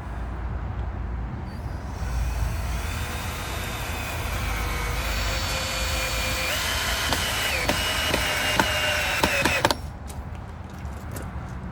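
Power tool working wood: its motor whines for about eight seconds, the pitch stepping up twice partway through, with a few sharp clicks before it cuts off suddenly.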